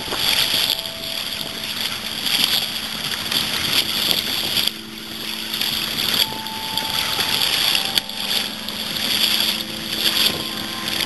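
Kayak paddle strokes splashing in choppy water, about one stroke a second, with wind rushing over the microphone. The strokes pause briefly around the middle.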